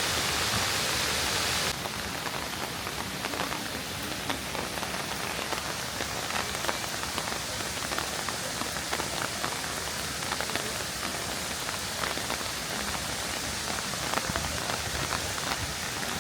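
Steady rush of a waterfall for under two seconds, then a sudden change to rain falling, with many small sharp drop ticks over a steady hiss.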